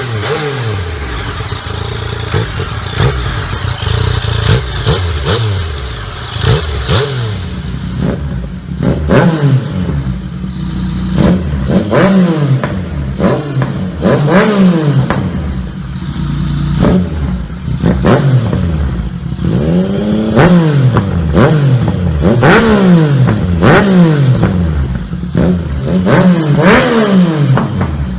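Yamaha MT-09 (FZ-09) 847 cc inline three-cylinder engine revving hard, its pitch climbing and falling over and over every couple of seconds as the bike is ridden fast.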